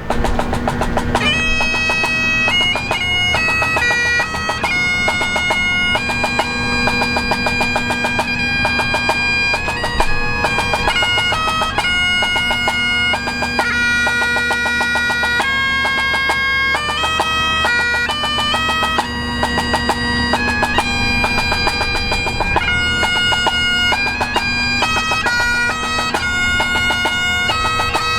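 Bagpipe music: a steady drone under a melody played in clearly stepped notes.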